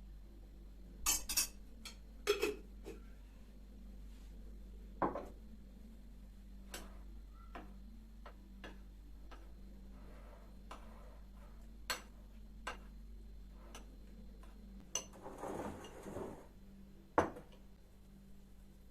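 Scattered clicks and knocks of objects being handled, spaced irregularly a second or more apart, with a short noisy scraping burst about fifteen seconds in.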